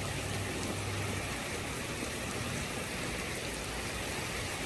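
Heavy rain pouring down steadily, driven sideways by storm wind.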